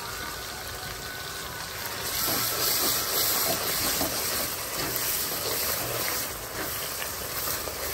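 Onion-tomato masala sizzling in a metal kadai while a wooden spatula stirs it, a steady hiss that grows louder about two seconds in.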